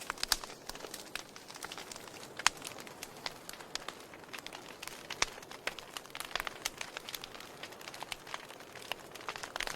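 Wood fire in a fireplace crackling, with frequent irregular sharp pops over a low hiss; the loudest pops come about a third of a second in, about two and a half seconds in and about five seconds in.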